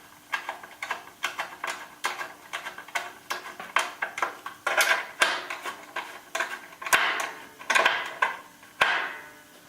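Metal bandsaw parts and hand tools clinking and knocking as they are fitted together by hand: irregular sharp clicks throughout, with a few short scraping sounds in the second half.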